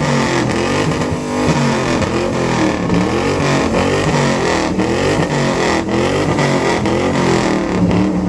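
Car engine revved again and again, its pitch rising and falling about once a second, through a loud exhaust.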